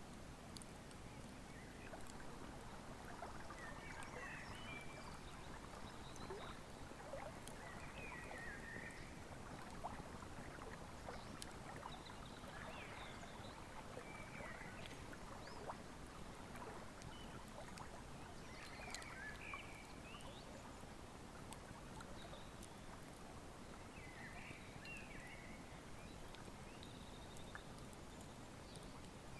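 Wood fire crackling with scattered sharp pops over the steady rush of a flowing river, with short bird chirps every few seconds.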